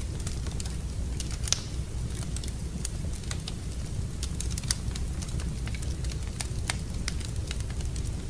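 Wood fire crackling in a fireplace: irregular sharp pops and snaps over a steady low rumble, with a louder pop about one and a half seconds in and another a little before five seconds.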